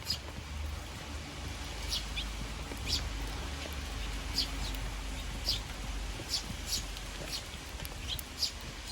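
Eurasian tree sparrows chirping at a bird feeder: short, high chirps about once a second, at irregular intervals, over a steady low rumble.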